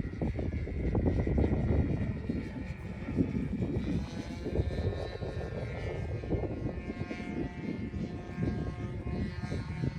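Radio-controlled foam model airplane's motor and propeller whining in flight, the pitch rising and falling as it manoeuvres, with strong wind gusting on the microphone.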